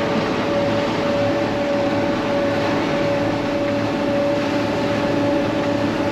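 Snow-plowing vehicle's engine running steadily under a constant high whine, with no change in speed.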